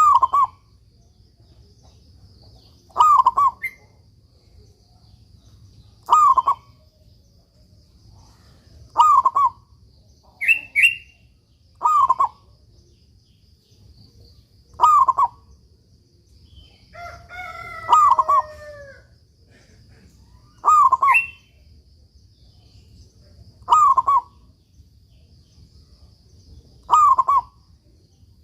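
Zebra dove (perkutut) cooing, one short phrase about every three seconds. A higher, brief call comes about ten seconds in, and a longer, different call about two-thirds of the way through.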